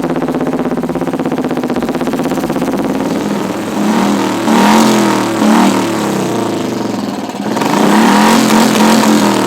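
Royal Enfield Classic 350 single-cylinder engine with an aftermarket exhaust, idling steadily and then revved in a series of blips from about four seconds in, with a second burst of revving near the end.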